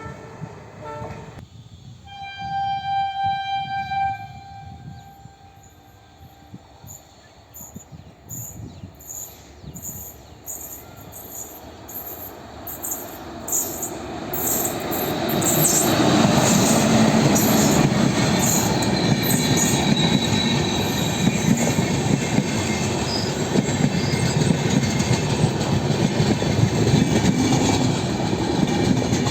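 A train horn note ends about a second in, and a second, higher horn blast sounds for about two seconds. Then evenly spaced wheel clicks over the rail joints build into the loud, steady rumble and clatter of a train passing close by, from about 15 seconds in.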